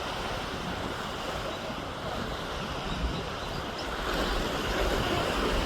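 Wind rumbling on the microphone over the rush of water, a steady noise that grows louder about four seconds in.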